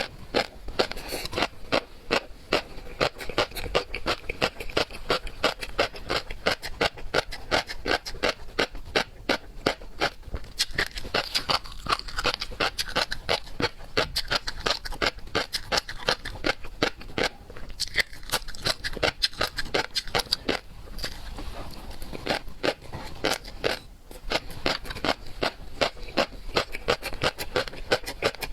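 Close-up eating sounds of seafood: continuous chewing and biting with fast, irregular wet clicks and crunches, many a second.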